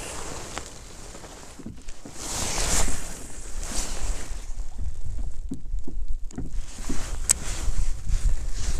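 Wind buffeting the microphone in uneven gusts, with water washing against a kayak hull, and one sharp click near the end.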